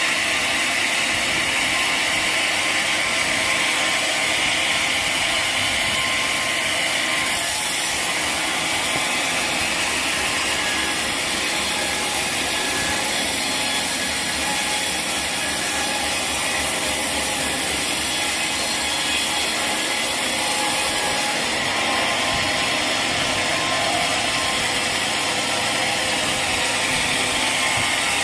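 Sawmill machinery running steadily: a dense mechanical noise with a fast rattle. Its tone shifts about seven seconds in and shifts back about twenty-one seconds in.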